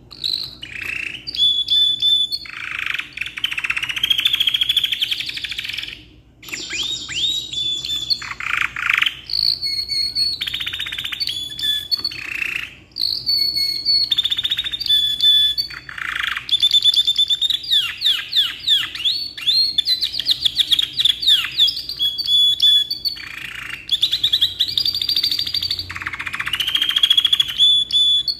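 Canary singing a long, continuous song of fast rolling trills and high chirps, with short pauses about six and twelve seconds in.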